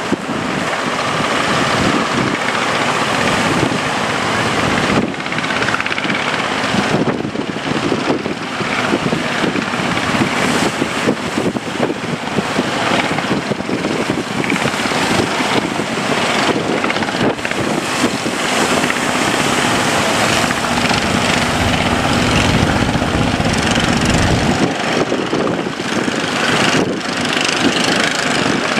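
A boat's engine running at sea, mixed with the rush of wind and water on the microphone. A low engine hum stands out for a few seconds about two-thirds of the way through.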